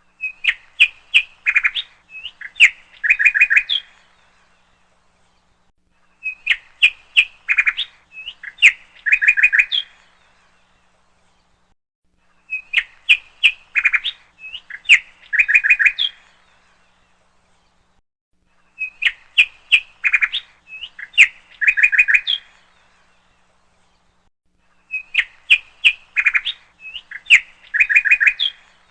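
A songbird singing: a phrase of about four seconds of sharp chirps and short trills, repeated five times with a couple of seconds of silence between. Each phrase is the same, as if one recording were looped.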